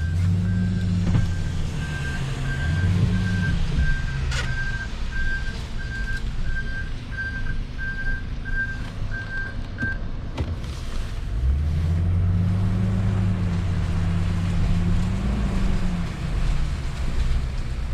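Salt truck's backup alarm beeping steadily, about one and a half beeps a second, for the first ten seconds as the truck reverses, over its engine running. The engine revs up and eases off twice, at the start and again about twelve seconds in.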